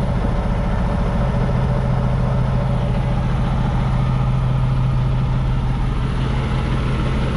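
Semi truck's diesel engine idling steadily just after start-up, a constant low hum.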